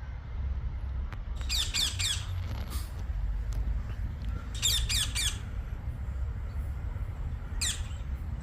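A bird giving short harsh calls in bunches: four in quick succession, then three, then a single one near the end, over a steady low rumble.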